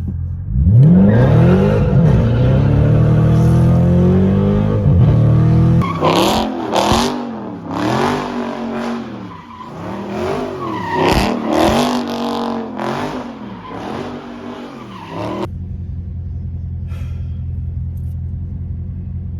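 V8 muscle car engine revving: one long rev that climbs and holds, then a run of quick rev blips rising and falling. It settles to a steady low idle about fifteen seconds in.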